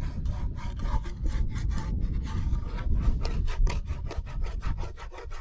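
A Trangia camping pot being scrubbed to lift off burnt-on food loosened with hot washing-up liquid: quick back-and-forth scraping strokes, about five a second.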